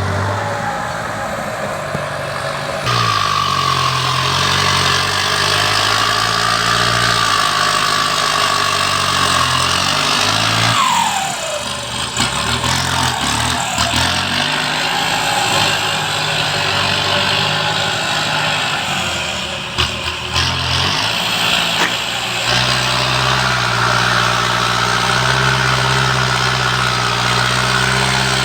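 Engines of heavy machinery running, their note changing abruptly a few times. In the first third a high steady whine sounds over the engine, then drops in pitch and stops about eleven seconds in.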